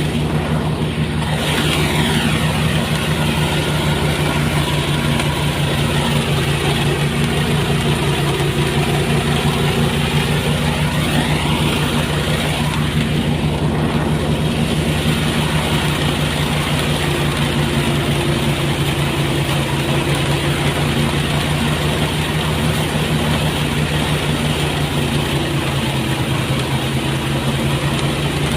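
Engine-driven rice threshing machine running steadily with a low, even hum. In the first half a fainter, higher tone slides down and back up.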